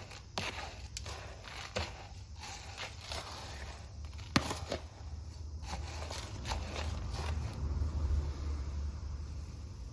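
Scattered crackles and scrapes of succulents, pots and soil being handled while repotting, with one sharp click about four seconds in. A low rumble swells in the second half.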